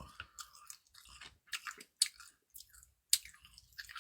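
A person chewing a mouthful of cold naengmyeon noodles close to the microphone: scattered soft, wet mouth clicks and smacks.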